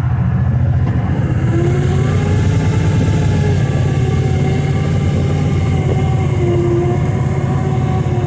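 Kawasaki Teryx side-by-side UTV engine running under way, the pulsing note getting louder and steadier about a second in as it picks up speed.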